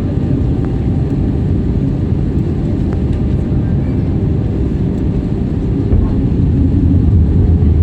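Steady low rumble of a jet airliner, growing a little louder about six seconds in.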